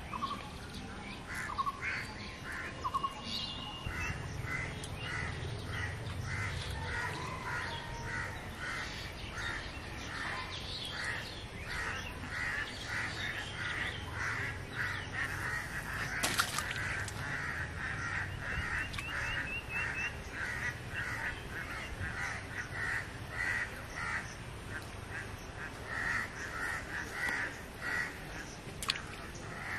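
A bird calling over and over, short calls about two a second, with a few other bird calls around it.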